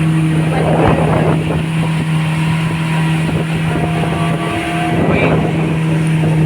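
Motorboat engine running at a steady pitch, a constant hum over the rush of wind and water.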